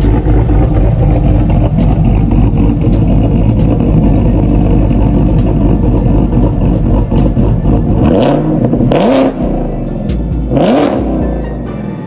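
A car engine blaring through a loud aftermarket exhaust, held at high revs. It is then blipped twice near the end, the pitch climbing sharply with each rev.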